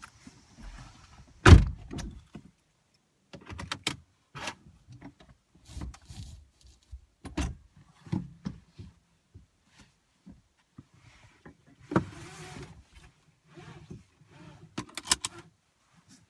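Scattered knocks, clicks and rustles of things being handled inside a stationary car, with no engine running; one heavy thump about a second and a half in is the loudest, and a quick run of sharp clicks comes near the end.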